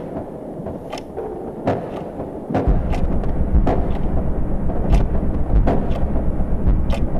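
Wind buffeting the microphone, a low rumble that grows much stronger about two and a half seconds in and then holds steady. Sharp clicks or snaps come through it every second or so at irregular intervals.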